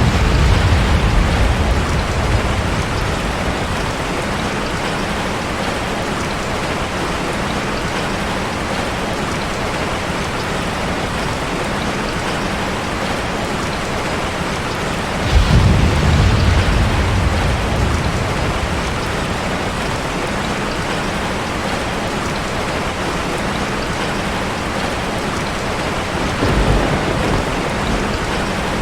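Heavy rain falling steadily on a car, with rolls of thunder rumbling in at the start, a louder one about halfway through, and a fainter one near the end.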